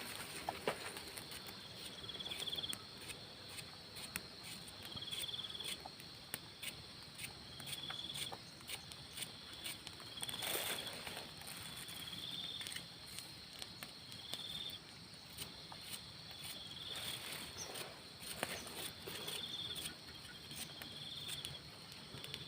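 Insects calling: a short, high chirp repeated about every two seconds over a steady high drone, with scattered clicks and a few louder knocks from handling things.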